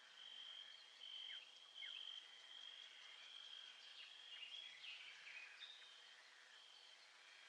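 Faint nature-ambience chorus of small calling animals: a steady high trill with short chirps and quick downward-sliding calls over it, busiest around the middle.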